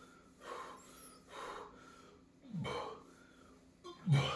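A man breathing hard in and out through his mouth, four heavy breaths a second or so apart, the last two louder gasps with a falling voiced edge, the one about four seconds in the loudest. He is panting from the burn of raw bird's eye chillies, his tongue throbbing.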